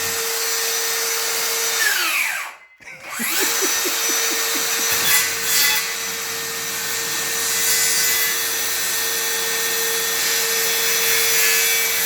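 Handheld electric circular saw running with a steady whine. About two seconds in the trigger is let go and the blade winds down almost to a stop; it is then squeezed again and the motor spins back up and runs on.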